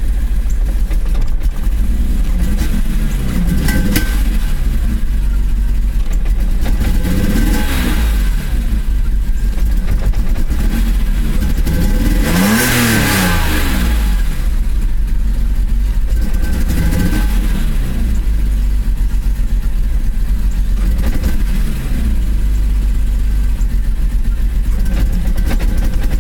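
BMW E34 M5's S38B36 3.6-litre straight-six engine idling and briefly revved six times, about every four seconds, the biggest rev about halfway through. It stumbles and misfires, symptoms of a bad distributor cap and rotor.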